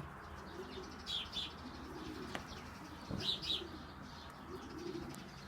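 Pigeons cooing softly in the background, with short high chirps in quick pairs twice.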